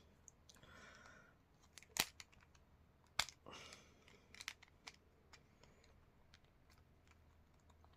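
Small plastic key fob case being handled and worked open by hand: a few small sharp clicks, the two loudest about two and three seconds in, with soft scraping between.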